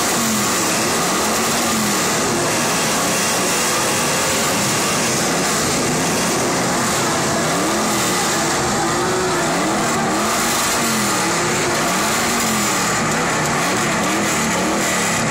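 Car engine revved over and over in a rev-off, its note rising and falling about every second and a half.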